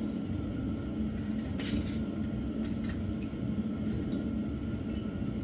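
Metal hand tools clinking in several short, sharp clicks as sockets are tried on a battery terminal clamp nut, over a steady low hum.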